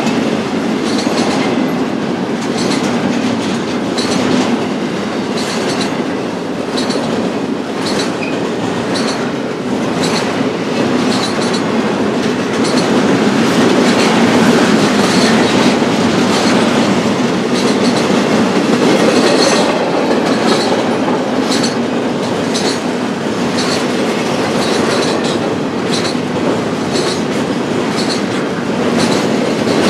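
Cars of a BNSF intermodal freight train rolling past in a steady rumble, with the wheels clicking over rail joints again and again.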